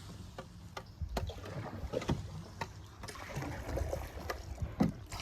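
Canoe being paddled: water swishing with the paddle strokes, several sharp knocks and a low rumble underneath.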